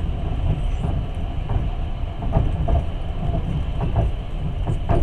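Passenger train running, heard from inside a carriage: a steady low rumble with irregular knocks and clatter.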